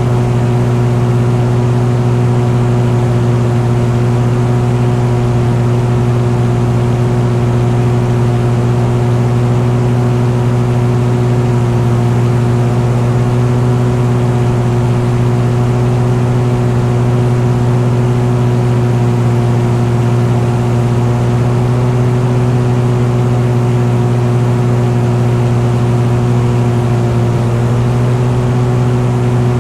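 An engine running at a constant speed: a steady, unbroken drone with a strong low hum and evenly spaced higher tones that hold their pitch throughout.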